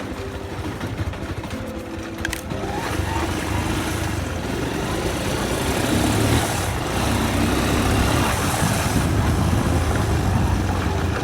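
Motorcycle engine running on the move, with wind and road noise; a click about two and a half seconds in, after which the engine pulls harder and gets louder.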